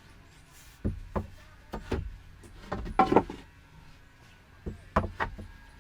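A series of irregular knocks and clunks, about seven in all, with the loudest cluster near the middle.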